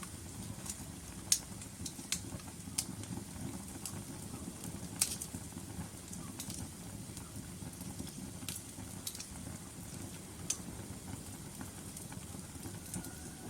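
Wood fire burning in a fireplace: a steady low rumble of flames with sharp crackles and pops at irregular intervals, the loudest about a second in and about five seconds in.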